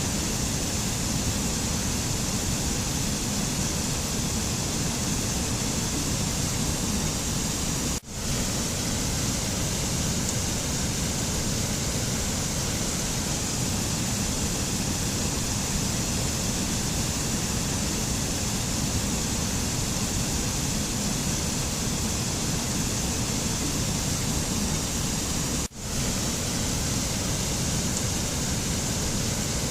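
Steady rushing noise of a mountain nature-sound ambience, with no music, broken by two brief sudden dropouts, about eight seconds in and near the end.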